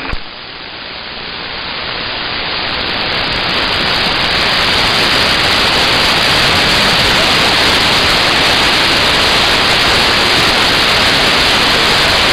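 CB radio receiver hiss with no station transmitting: open-channel static that swells over the first few seconds after the last transmission drops, then holds steady.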